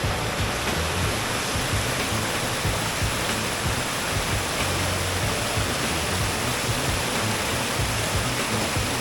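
A waterfall's water rushing and splashing in a steady, unbroken noise.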